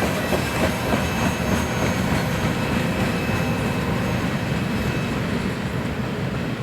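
Freight train cars rolling past, a steady loud rumble of steel wheels on rail with a faint high squeal from the wheels.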